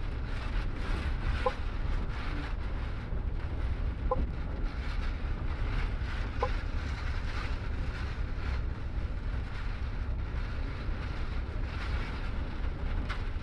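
Cabin noise of a MAN double-decker bus running at speed in a storm: a steady low rumble of engine and road with wind rushing over the body. Short faint squeaks every few seconds.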